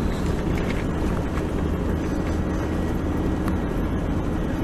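Four-wheel-drive vehicle driving along a sand track: steady engine and tyre noise.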